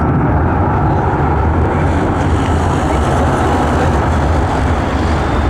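Aircraft engines running, a loud steady noise with a strong low rumble.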